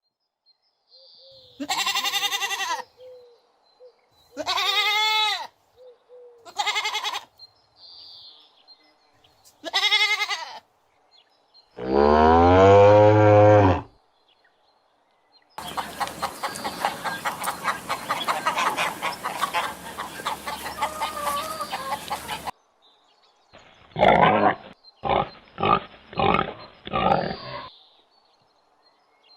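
A sequence of farm-animal calls: four separate pitched calls a few seconds apart, then a longer, louder low call, then several seconds of rough, noisy calling, then a quick run of short calls.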